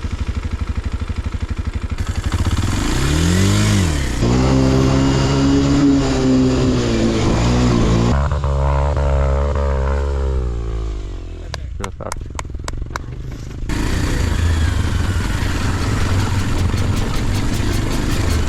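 Enduro dirt bike engine revving hard at full throttle, its pitch sweeping up and down, then holding high before sinking away. About two-thirds of the way through it drops off with a quick run of clicks, then a steady engine sound returns near the end.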